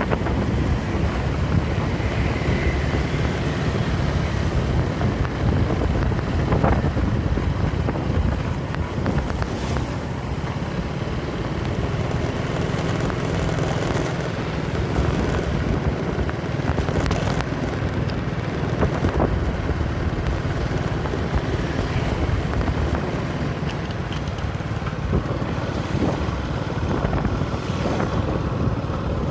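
Wind buffeting the microphone: a steady, loud low rumble that wavers throughout, with a few faint knocks scattered through it.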